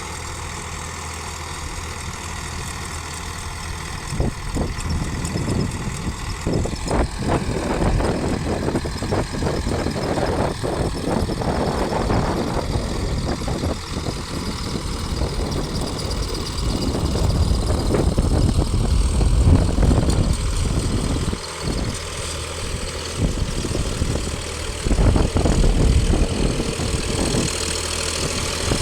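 Sonalika 745 DI tractor's diesel engine running, steady at first. From about four seconds in, a rougher, uneven noise comes over it, swelling and dipping in loudness.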